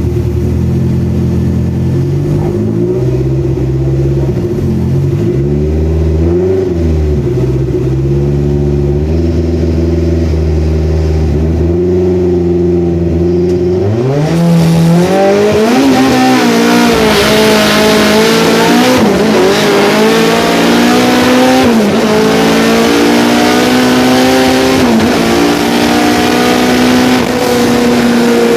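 Turbocharged car engine running on 1 bar of boost: it runs lower with a few short blips of the throttle, then about halfway through accelerates hard, the revs climbing and dropping back at four or five gear changes.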